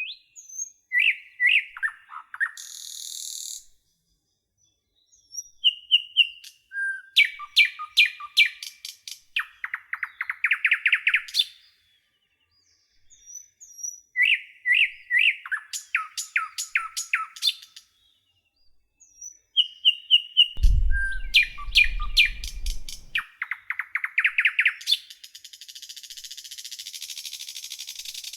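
Songbirds singing in short bursts of chirps, quick repeated notes and fast trills, with complete silences between the bursts. A low rumble runs under the birdsong for a couple of seconds past the middle.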